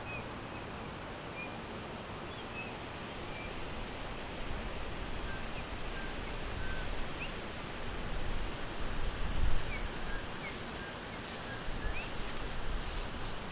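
Forest ambience: a steady hiss with small birds giving faint, short, scattered chirps. A brief low rumble swells about nine seconds in.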